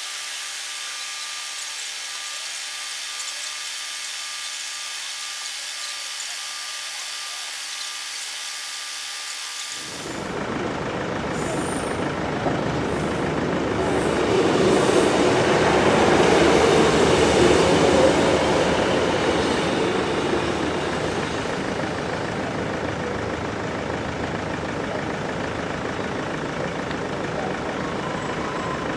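Sprinter diesel multiple unit passing over a level crossing: a rushing rumble of the train on the rails that builds from about a third of the way in, is loudest around the middle, then eases off.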